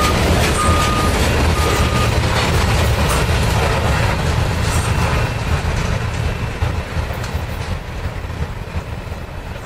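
Freight train's covered hopper cars rolling past on the rails, wheels clacking, the sound fading as the end of the train pulls away. A short high beep repeats about every three quarters of a second during the first two seconds.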